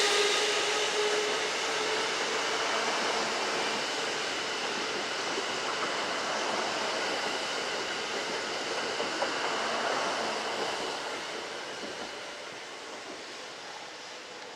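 Kintetsu electric train running past on the track, with a motor whine at the start, then a rushing rail noise that fades steadily as the train moves away.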